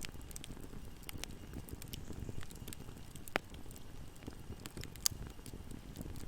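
Wood fire burning in a fireplace, a steady low rumble of flames with scattered crackles and pops, two sharper pops about three and a half and five seconds in.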